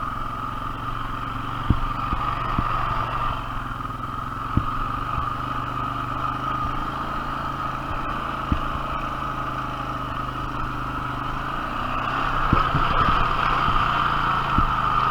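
A 450 four-wheel-drive ATV engine running steadily at low revs, with a few short knocks, growing louder about twelve seconds in.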